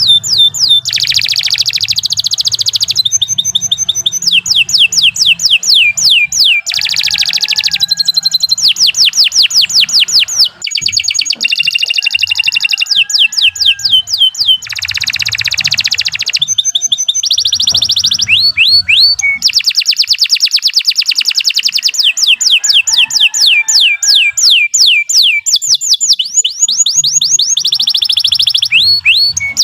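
Domestic canary singing a long, continuous song: fast runs of one sweeping note repeated many times before the bird switches to the next phrase, broken by a few short buzzy rolls.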